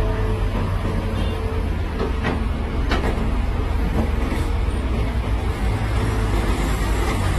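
Heavy diesel machinery running steadily with a deep rumble, with two short metallic clanks a little after two seconds and just before three seconds in.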